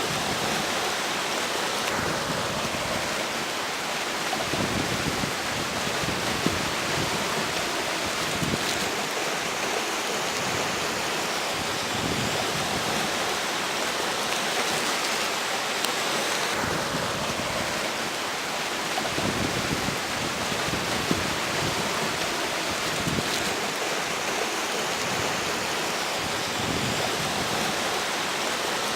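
Steady rushing of a river's flowing water mixed with strong wind blowing across the bank.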